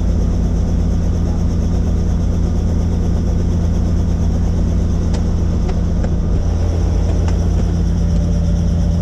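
Helicopter in flight: the engine and rotor make a steady, loud drone with a deep constant hum and a faint high whine above it.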